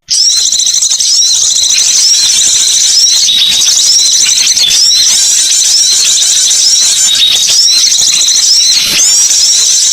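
Recorded bird calls played as a lure: a dense, high-pitched chirping with a short curling call repeating over and over, starting abruptly after a cut.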